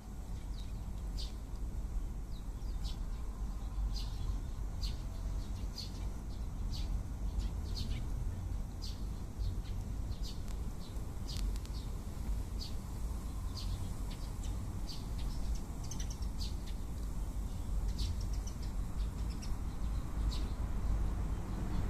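Eurasian tree sparrows chirping: short, separate high chirps, roughly one or two a second, over a steady low rumble.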